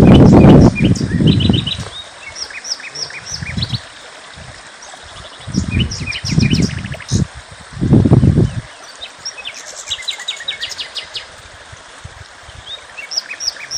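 Many small songbirds chirping and twittering in quick, high notes. Loud, low, muffled rumbles come near the start and three more times in the middle.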